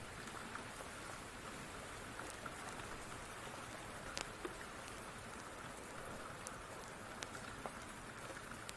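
Steady rain falling, with scattered sharp crackling pops from a wood fire.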